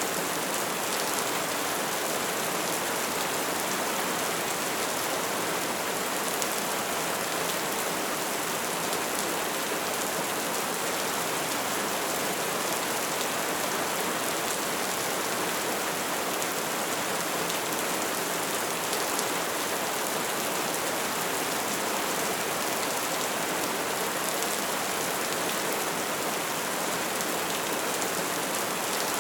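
Bonfire burning with a steady, dense crackle and hiss.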